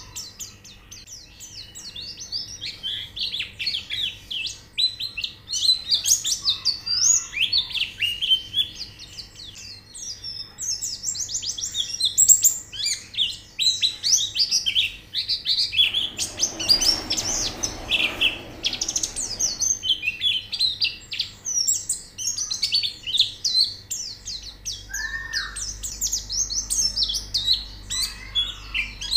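Several white-eyes (pleci) chirping and twittering in quick, overlapping high notes, the kind of colony call used as therapy audio to get caged birds singing. Midway a hiss of noise lasts about three seconds.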